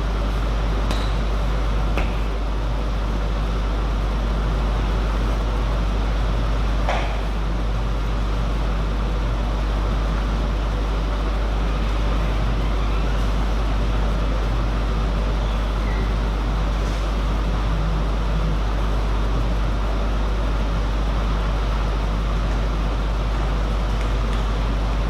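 Steady low hum and even background noise, like ventilation or mains hum in a large hall, with a few faint isolated clicks.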